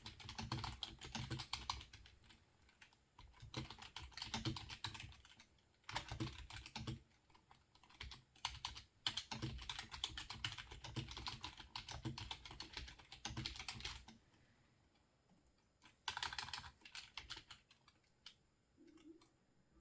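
Typing on a computer keyboard: quick runs of keystrokes broken by short pauses. In the last few seconds it goes mostly quiet, apart from one brief run and a few single taps.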